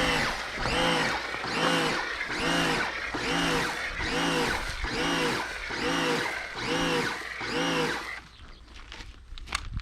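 A mechanism squeaking over and over, one rising-and-falling whine a little more than once a second, eleven or so alike. It stops about eight seconds in, leaving a few faint clicks.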